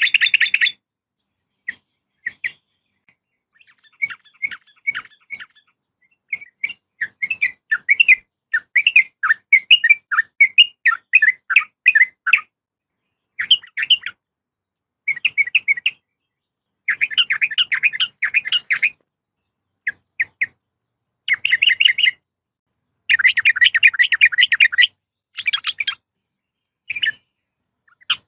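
Sooty-headed bulbul (trucukan) calling in repeated bursts of quick chattering notes, with short silent gaps between bursts; the recording is offered as a female's call to a male, used to lure or stir a quiet male into song.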